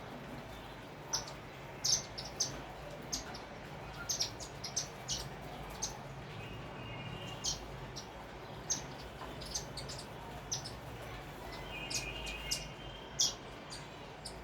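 Sparrows chirping: many short, sharp chirps coming irregularly, over a steady low hum.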